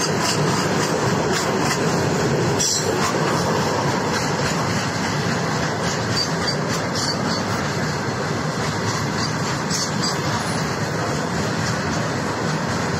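Open freight wagons of a long goods train rolling past close by: a steady rumble of steel wheels on the rails, broken by scattered sharp clacks.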